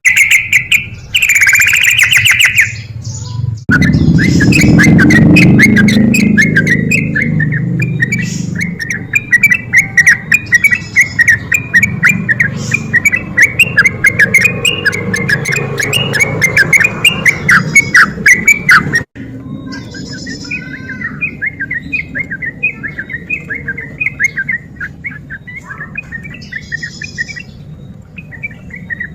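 Yellow-vented bulbul (trucuk) singing in fast, chattering runs of notes. About two-thirds of the way through the recording cuts abruptly, and the song carries on somewhat quieter.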